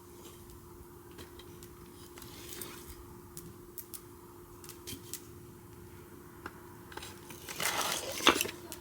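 Wood fire crackling, with sparse sharp pops scattered through, over a faint steady hum. Near the end comes a louder rustling stretch of about a second, ending in one sharp knock or clink.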